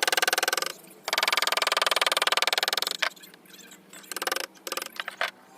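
Woodcarving tool working on wood with a rapid, even chatter, in two longer bursts with a short pause between them, then a few short bursts near the end.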